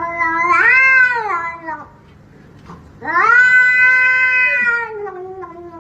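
Domestic cat giving two long, drawn-out meows. The first is already going, bends up in pitch and then fades; the second starts about three seconds in and slowly sinks in pitch.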